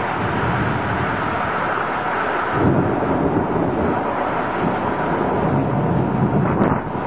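Thunderstorm: steady rain and wind noise on the microphone, with a low rumble of thunder from about two and a half seconds in until near the end.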